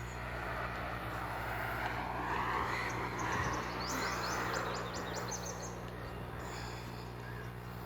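A vehicle passing by, its noise swelling and then fading over several seconds, with a quick run of bird chirps near the middle and a steady low hum underneath.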